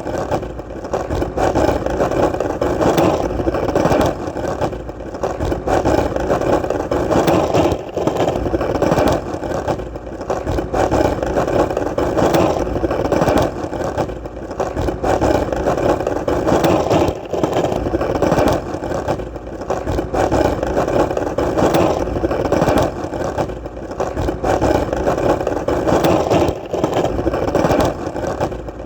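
Skateboard wheels rolling on hard ground: a steady rumble with brief dips in loudness every few seconds.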